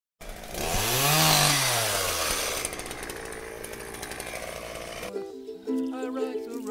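Chainsaw revving up and then easing back, running on until about five seconds in. Then plucked ukulele music starts.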